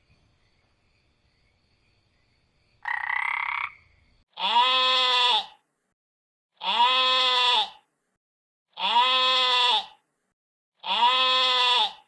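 An animal call: a short call about three seconds in, then the same drawn-out call repeated four times, about two seconds apart, each rising then falling slightly in pitch.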